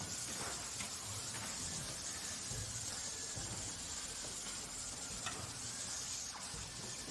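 Steady industrial background noise: an even high hiss over a low rumble, with a few faint clicks.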